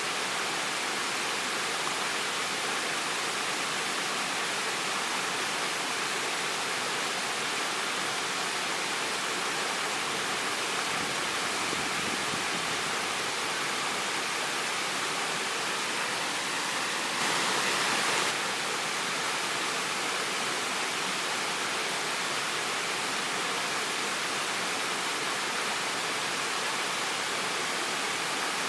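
Waterfall: a steady rush of falling, splashing water, with a brief louder swell lasting about a second roughly two-thirds of the way through.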